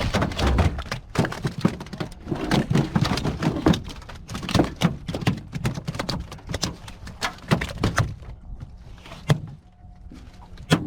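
A rapid, irregular series of knocks and thumps that thins out to a few isolated knocks about eight seconds in.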